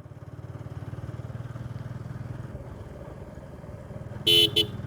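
Motorcycle engine running steadily while riding, a fast even low pulse. Near the end come two short horn beeps.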